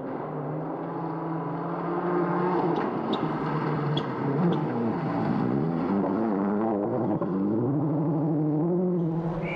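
Rally car engine at high revs, holding steady, then dropping and climbing again through the gears. A few sharp ticks come about three to four seconds in.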